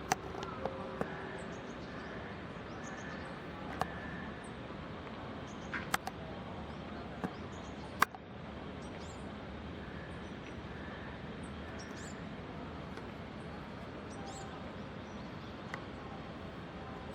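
Faint, short, high-pitched bird calls scattered over a steady outdoor hiss, with a few sharp clicks, the loudest about eight seconds in.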